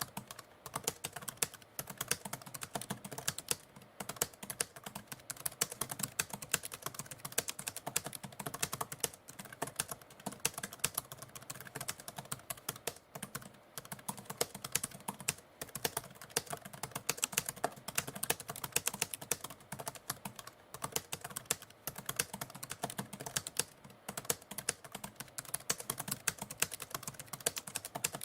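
Typewriter keys being struck in a fast, uneven stream of clicks.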